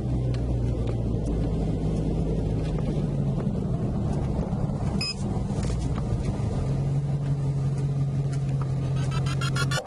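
Car engine idling steadily with a low hum. A rapid electronic pulsing starts near the end.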